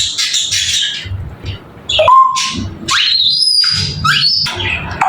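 African grey parrot calling: harsh, noisy squawks in the first second, then a short clear whistle about two seconds in, followed by a whistle that rises and levels off into a high held note.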